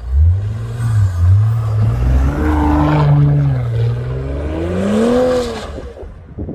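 2018 Audi S5's turbocharged V6 through a Milltek aftermarket exhaust, revving up and down; the pitch climbs to a peak about five seconds in, then falls and the sound fades away near the end.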